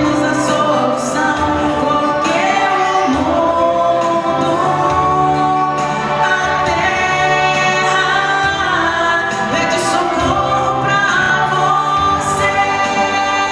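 Music with several voices singing together, choir-like, over accompaniment, with long held notes.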